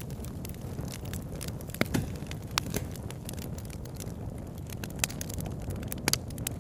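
Wood campfire crackling, with sharp irregular pops and snaps, the loudest a little under two seconds in and just after six seconds, over a steady low rushing noise.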